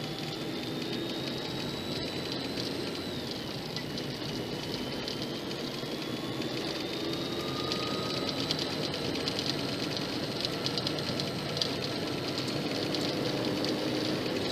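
Steady engine and road noise inside a moving car, picked up by a dash camera.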